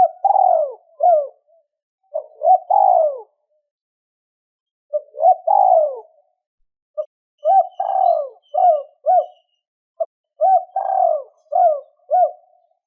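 Spotted dove cooing: five phrases, each a run of short coos with falling notes, separated by brief pauses.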